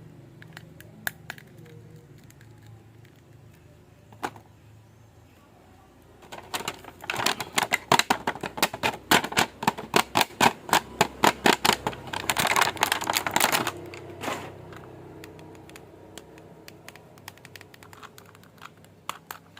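Quick sharp plastic clicks and crackles from a toy action figure and its packaging being handled: a few scattered clicks, then a dense run of rapid clicking from about six to fourteen seconds in, thinning out again afterwards.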